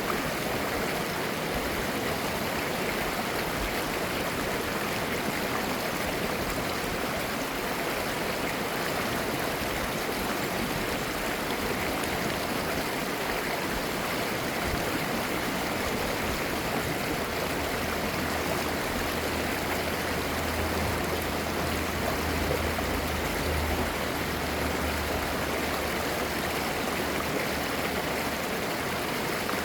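Clear mountain stream flowing over rocks, babbling steadily. A faint low hum joins for about ten seconds past the middle.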